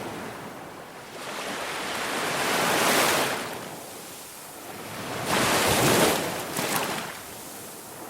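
Ocean waves surging in and washing back, each swell rising and falling over about three seconds, with two surges peaking about three and six seconds in.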